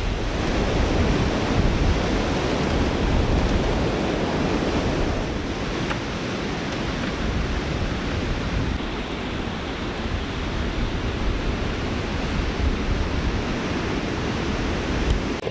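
Strong wind blowing across the microphone, a steady rushing noise heavy in the low end.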